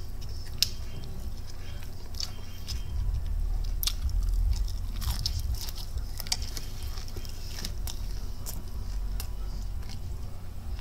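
Biting into and chewing crispy breaded Popeyes Ghost Pepper chicken tenders close to the microphone, with sharp crunches and crackles every second or so.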